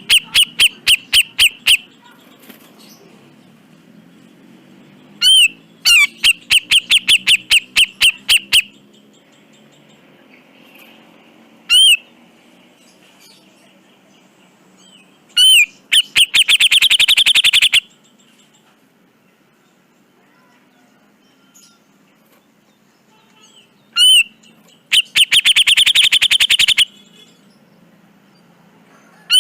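Cucak jenggot bulbul calling in harsh bouts of rapidly repeated notes, about four bouts with pauses between them. The bouts near the middle and end are faster, rattling runs.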